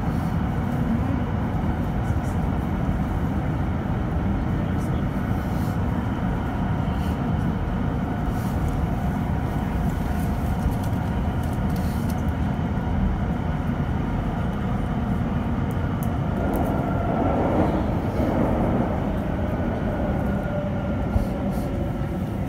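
London Overground electric train running through a tunnel, heard from inside the carriage: a steady loud rumble of wheels on track with a faint high whine over it.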